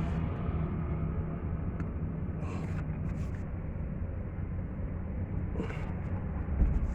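Truck's diesel engine running steadily with a low rumble, with two short hisses partway through and a low thump near the end.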